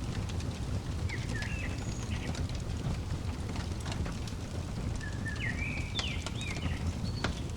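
Wood fire crackling with scattered sharp pops over a steady low rumble, while a songbird chirps short twittering phrases twice, about a second in and again about five seconds in.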